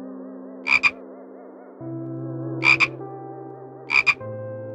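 A frog croaking three times, each croak a short, sharp double note, spaced a second or two apart.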